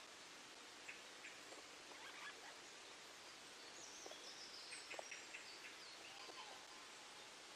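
Near silence: a faint steady hiss with soft, high bird chirps in small clusters and a brief high warbling phrase about halfway through.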